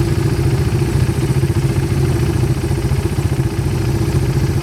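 Quad bike engine idling steadily, with an even, fast putter and no revving.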